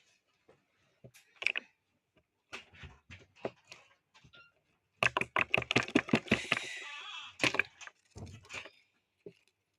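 Slime being squeezed and worked in the hands, making scattered sticky clicks and small pops that turn into a dense run of rapid crackling about five seconds in, lasting roughly three seconds.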